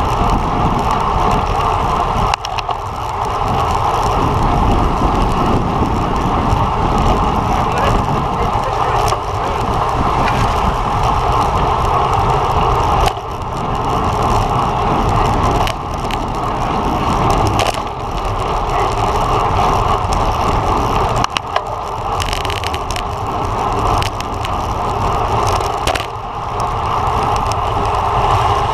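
Road bike rolling at race speed: a steady rush of wind over the microphone and the hum of tyres on the road, with the sound dipping briefly several times.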